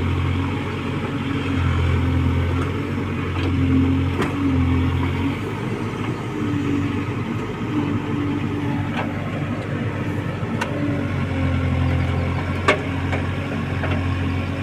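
Diesel engine of a JCB 3DX backhoe loader running, its note swelling and easing every few seconds as it works, with a few sharp clacks, the loudest near the end.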